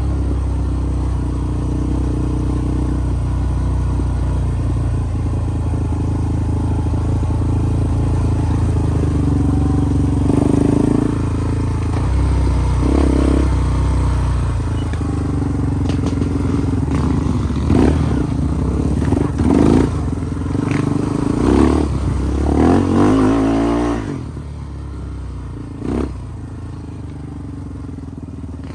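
Off-road vehicle engine running, with repeated sharp revs and some clatter over the middle of the stretch. The sound drops suddenly to a lower, steadier engine sound about three-quarters of the way through, and there is a single knock shortly after.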